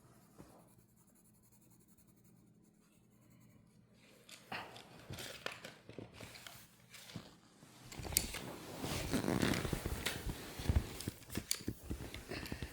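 Coloring on paper: irregular scratchy strokes that start about four seconds in and get louder from about eight seconds, with a few sharp knocks among them.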